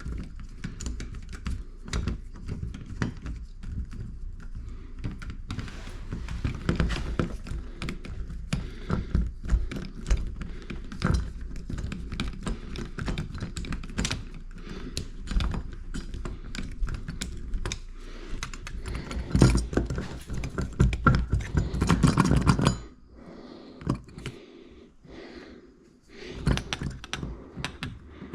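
Irregular knocks, thunks and clatter, many sharp hits in quick succession, with a denser, louder run of knocking a little after the middle, then a short quieter spell near the end.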